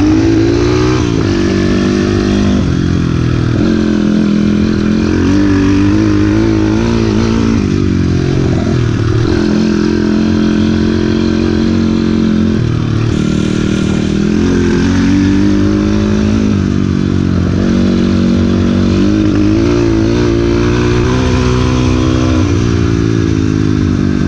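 YCF 150 Classic pit bike's small single-cylinder four-stroke engine being ridden. The engine note climbs and drops again and again as the throttle is worked.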